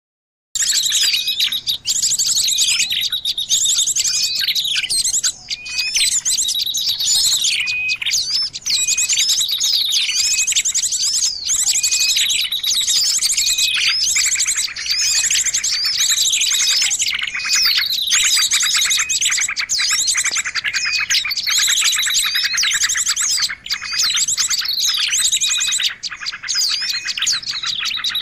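Bird-lure recording of small songbirds calling: a dense, overlapping chorus of high chirps, rapid trills and short falling notes repeated over and over, starting abruptly about half a second in.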